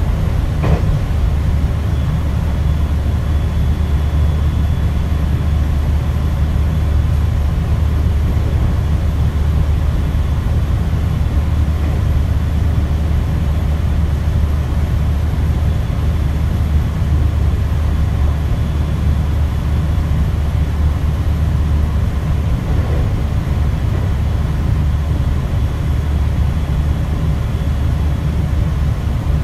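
JR 521 series electric train running at a steady speed, heard as a constant low rumble of wheels and running gear with a faint high whine above it.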